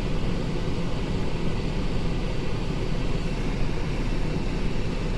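The 2008 Cadillac SRX's 3.6-litre V6 idling with a steady low rumble. No misfires are counted, and the mechanic calls it running great.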